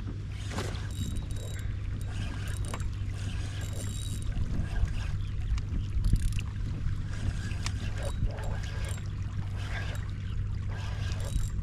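Water sloshing against a plastic kayak hull with a steady low rumble of wind on the microphone, and scattered small clicks and knocks from the kayak and fishing gear while a big fish is fought on rod and reel.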